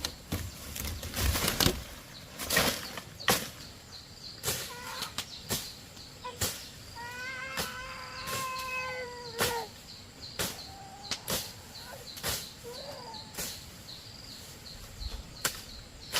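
Scattered knocks and taps, and one long high cry lasting about two and a half seconds around the middle.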